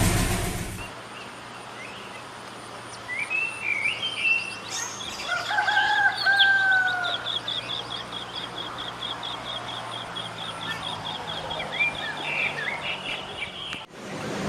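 Birds chirping and calling, with a fast, evenly repeated high trill through most of the clip and a longer, lower call about five seconds in. The sound cuts off abruptly just before the end.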